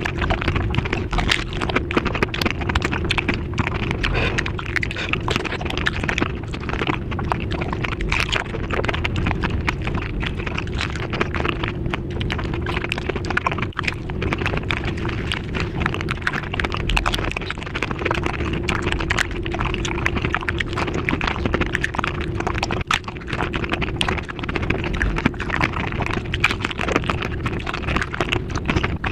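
Eating sounds of dahi puri sped up five times: a dense, unbroken stream of crunching, chewing and wet mouth clicks.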